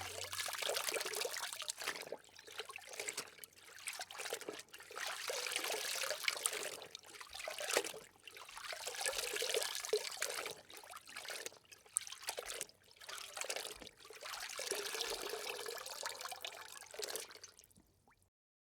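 Pond water splashing and trickling in irregular swells of a second or so with short gaps between, stopping near the end.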